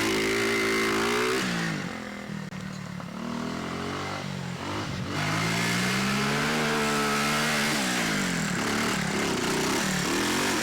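Dirt bike engine revving hard, its pitch rising and falling again and again as the throttle is worked. It eases off for a few seconds about two seconds in, then climbs again.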